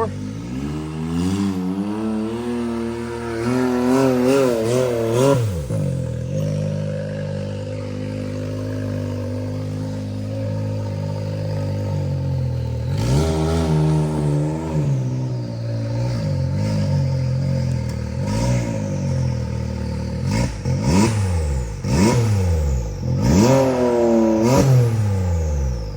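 Side-by-side UTV engine revving in repeated throttle blips while rock crawling, dropping back to a steadier lower running between them, with a run of quick sharp revs near the end.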